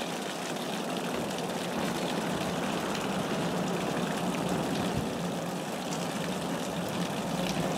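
Steady rumble of an approaching train, slowly getting louder.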